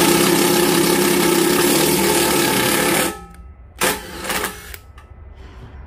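Electric drill running at a steady speed for about three seconds, then a shorter second burst, cutting threads with a tap in a drilled bolt hole.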